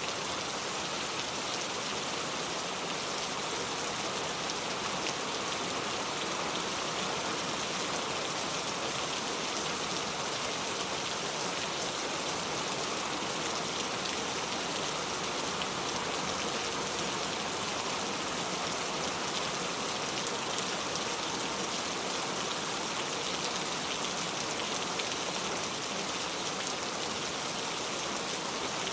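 Steady rain falling, a dense, even hiss of many drops on surfaces.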